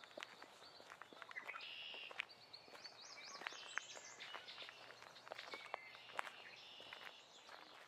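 Faint forest ambience: several birds singing and calling, with a quick run of rising notes about three to four seconds in, over soft footsteps on the forest floor.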